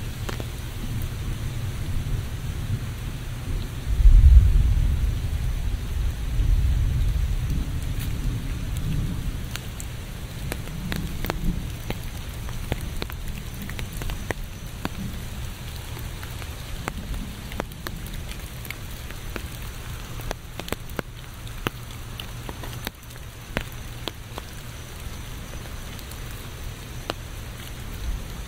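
Steady rain with many individual drops ticking. A low rumble of thunder swells about four seconds in and rolls away over the next several seconds.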